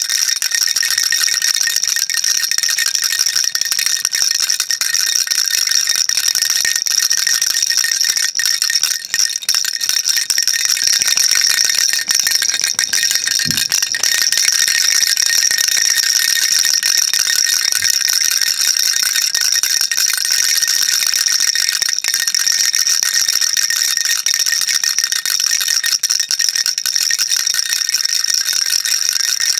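Baby rattle shaken continuously: a dense, steady, high-pitched clatter of small beads rattling inside.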